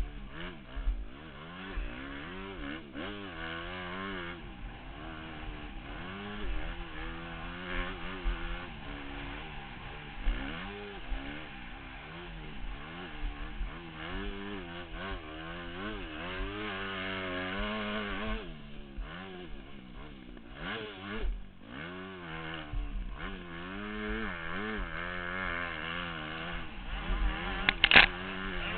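Motocross bike engine running on the track, its pitch rising and falling again and again as the throttle is opened and shut through turns and jumps. A sharp knock sounds near the end.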